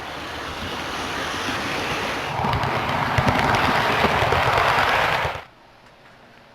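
Train rolling on rails, a rushing, clattering noise that grows louder and then cuts off suddenly about five and a half seconds in.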